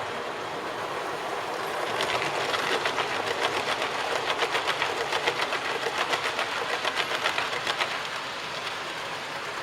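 A model train running on the layout track, its wheels clicking rapidly over the rail joints. The clicking grows louder as the train passes close, about two seconds in, and fades again near the end.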